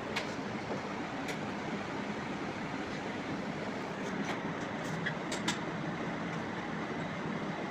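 Steady machine running noise with a low hum, and a few light clicks scattered through it.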